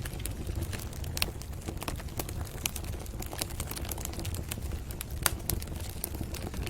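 Wood fire crackling in a fireplace: irregular sharp pops and snaps over a low steady rumble, with louder pops about a second in and again about five seconds in.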